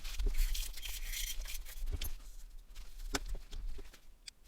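Rustling, then a few sharp light clicks and taps of small phone parts being handled on a workbench.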